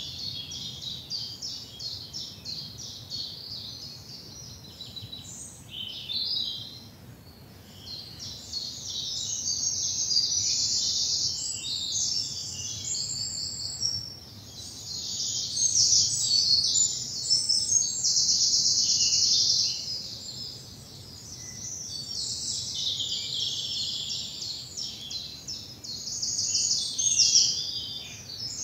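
Spring woodland dawn chorus: several songbirds singing at once, with overlapping high chirps and fast trills that swell and ease off.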